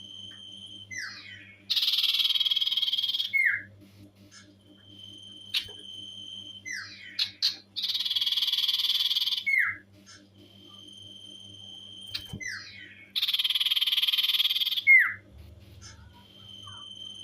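Common iora (cipoh) singing a repeated phrase three times, about every six seconds. Each phrase is a long steady high whistle, a few quick falling notes, then a loud, very rapid trill of about a second and a half ending in one sharp falling note.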